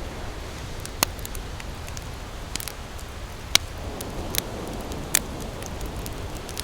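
Campfire crackling and popping, with sharp pops about one, three and a half and five seconds in and smaller ticks between, over a steady low rumble of ocean surf.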